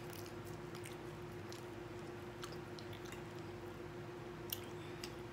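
A person chewing food, with scattered soft mouth clicks and a few light clicks of a fork on a plate, the clearest one about four and a half seconds in. A steady low hum runs underneath.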